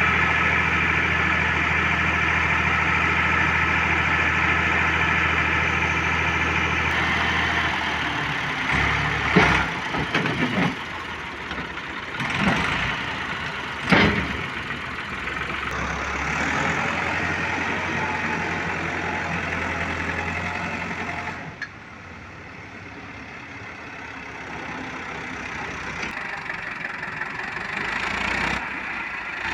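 Tractor engine running steadily, with a burst of loud knocks and clatter about nine to fourteen seconds in; the engine sound gets quieter about two-thirds of the way through.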